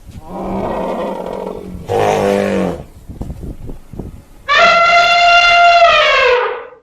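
Elephant trumpeting: one long, brassy blast about four and a half seconds in that drops in pitch as it fades. Before it come two shorter, lower calls and a few light knocks.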